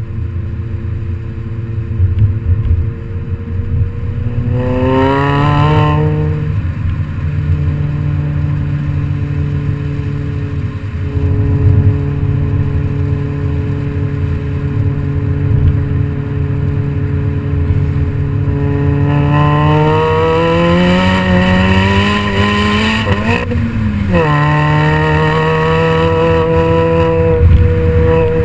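Modified MINI Cooper GP's aftermarket exhaust with the engine idling, blipped briefly about five seconds in, then held at a steady idle. Near the end the revs climb gradually, drop sharply for a moment, then hold steady a little above idle.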